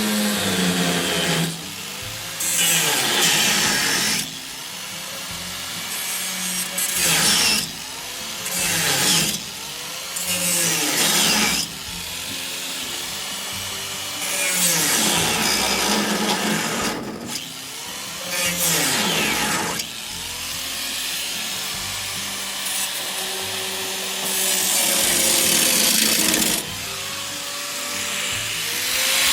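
A hand tool worked in long rasping strokes. The strokes repeat every one to two seconds, with quieter gaps between them.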